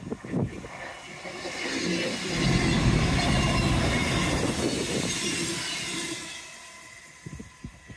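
A train passing on the line: its rumble and rail noise swell up, are loudest about two and a half seconds in, and die away by about seven seconds.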